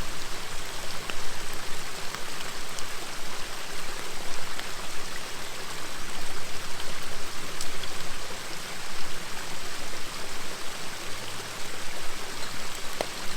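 River water flowing steadily over stones, with a few sharp pops and crackles from a wood campfire scattered through it.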